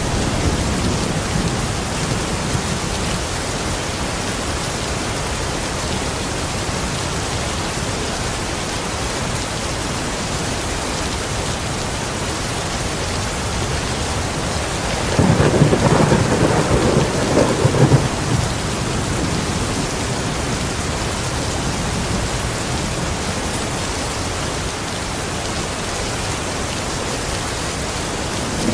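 Steady rain falling, with a roll of thunder about halfway through that lasts around three seconds.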